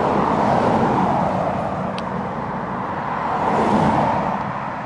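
Road traffic with cars passing, heard over wind and road noise, with one pass at the start and a louder one about four seconds in.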